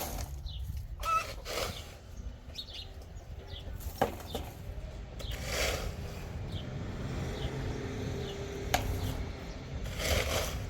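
Small birds chirping repeatedly in short falling notes, with a few brief swishes and a couple of sharp knocks over a steady low rumble.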